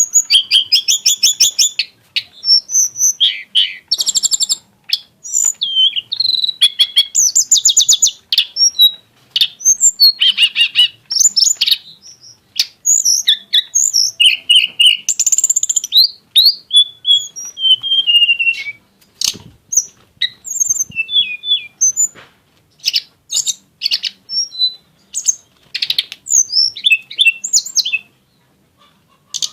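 Tledekan gunung (hill blue flycatcher) singing a long, varied song: loud phrases of clear whistles, rapid trills and falling slurred notes, broken by short pauses, with a brief silence near the end.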